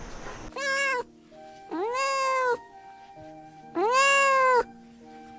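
A domestic cat meowing three times: a short meow, then two longer drawn-out ones, each rising and then easing down in pitch. Soft background music plays steadily beneath.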